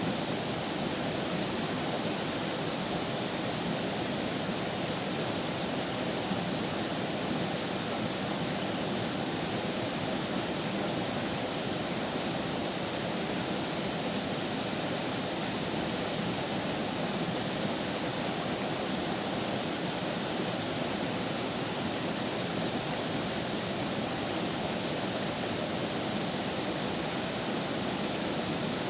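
River water flowing steadily: an even, unbroken rush with no pauses or changes.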